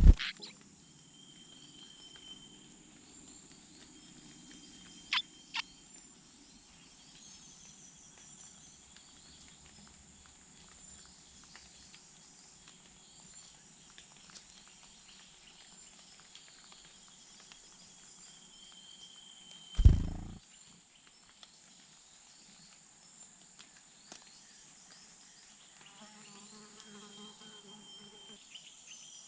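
Steady high-pitched insect drone of crickets or cicadas, with a few faint short calls. Two small clicks come about five seconds in, and a single loud thump about two-thirds of the way through.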